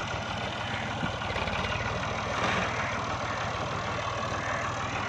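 Tractor diesel engine idling steadily, an even rapid firing rhythm with no change in speed.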